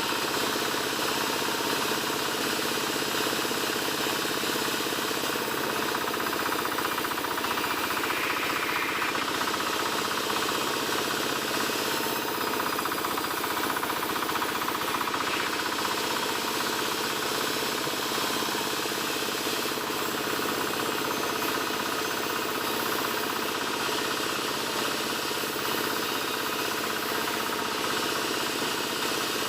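Powered wood saw running steadily while cutting albasia (sengon) timber, a continuous even machine drone with no pauses.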